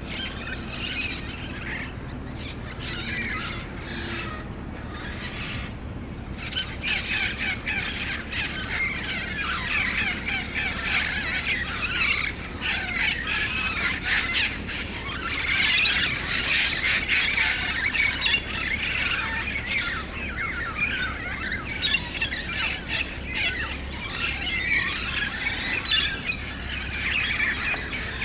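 A large flock of green parrots squawking and screeching together, a dense chorus of overlapping calls that grows fuller and louder after the first several seconds.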